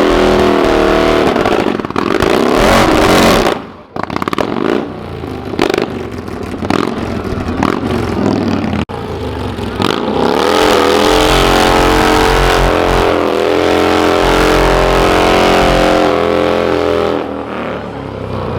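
Car engine revved hard and held at high revs for a burnout, with a sudden drop about four seconds in before it picks up again and holds steady.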